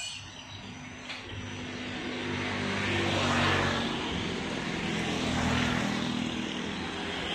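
An engine droning steadily, growing louder toward the middle and swelling twice before easing off, like a motor passing by.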